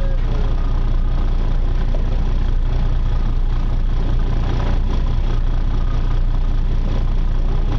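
Charter boat's engine running steadily, a constant low drone with an even hiss over it.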